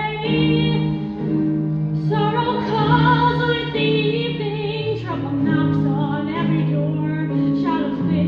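Musical theatre song: a female solo voice sings long held notes with vibrato over sustained accompaniment chords, with one long note from about two seconds in and shorter phrases after.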